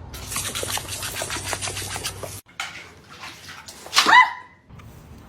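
About two seconds of busy scuffling, clicking noise, then after a cut a single loud dog cry about four seconds in, dropping in pitch.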